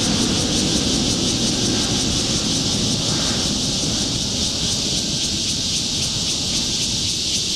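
Jet airliner engine noise: a steady low rumble that eases a little partway through, under a constant high hiss.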